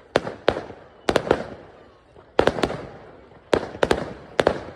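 Fireworks bursting: a rapid run of about a dozen sharp bangs, many in quick pairs and clusters, each trailing off in an echoing rumble.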